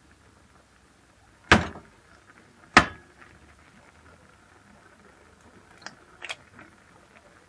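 Two loud knocks about a second apart, followed by a few lighter clicks near the end, like household objects being handled or set down.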